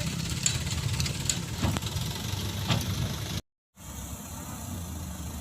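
Diesel engine of an Isuzu Elf dump truck running at a steady idle with a low rumble and a few light clicks. The sound cuts out completely for a moment about three and a half seconds in, then the engine resumes.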